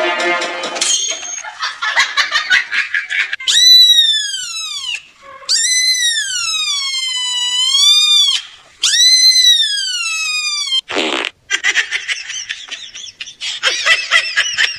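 A cat's three long, drawn-out meows, each rising and then falling in pitch, with shorter, choppier sounds before and after them.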